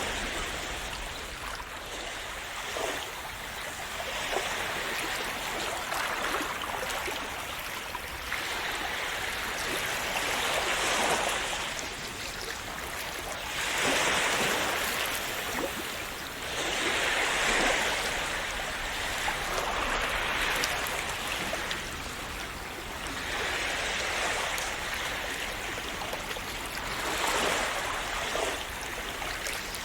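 Calm sea waves splashing and washing in, a swell of hiss about every three to four seconds.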